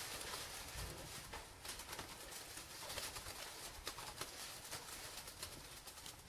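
Pigeons, faint, with soft cooing among scattered small clicks and rustles.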